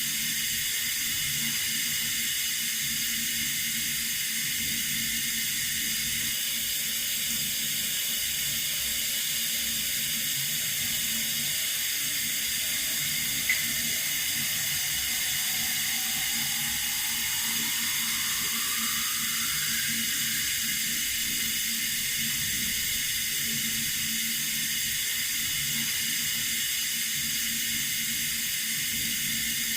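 Water running steadily from a tap, an even hiss. A single brief click comes about halfway through, and a faint tone rises in pitch shortly after.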